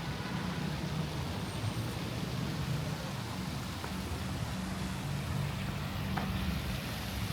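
Steady low rumble of outdoor city-street ambience, with a few faint clicks about two and six seconds in.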